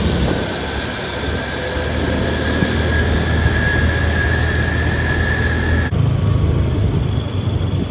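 A motor vehicle running under way: a steady low engine drone with a thin high whine that rises slightly in pitch. The sound changes abruptly about six seconds in, the whine dropping out and the drone shifting.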